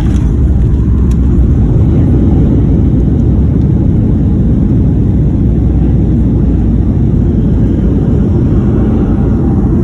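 Loud, steady low rumble inside the cabin of a Boeing 737-800 during its landing.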